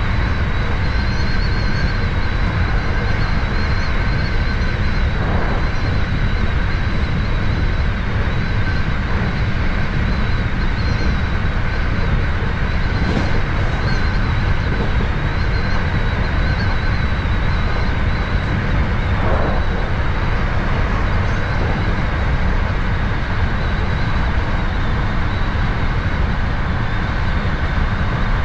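Hankyu 7000-series electric train running steadily between stations, heard from just behind the driver's cab: a continuous low rumble of wheels on rail with a faint steady high whine.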